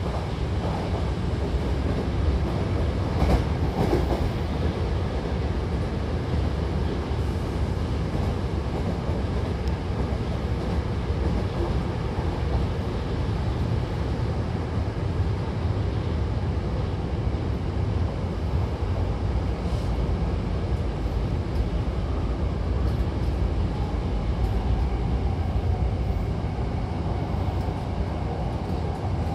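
Hankyu Railway Takarazuka Line electric commuter train heard from inside the car while running between stations: a steady rumble of wheels on rail and running gear. A few sharp clicks come about three to four seconds in, and a faint steady whine comes in near the end.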